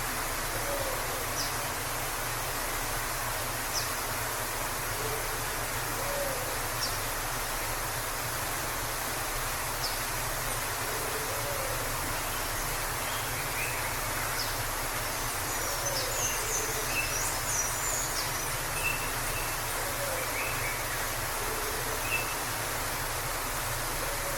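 Waterfall rushing steadily. Over it, a bird repeats a low call every couple of seconds, scattered higher chirps come and go, and a short flurry of high birdsong arrives about two-thirds of the way through.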